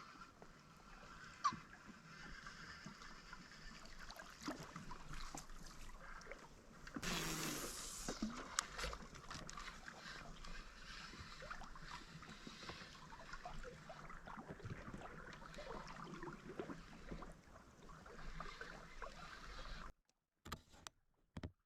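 Faint water and boat noise, with small scattered knocks and clicks over a low hiss. There is a brief louder rush of noise about seven seconds in, and the sound drops out to silence near the end.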